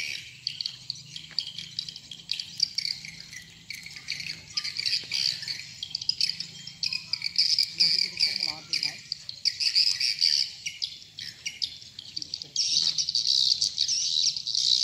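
Swiftlets twittering: a dense, unbroken run of rapid high chirps and buzzy trills, growing louder near the end.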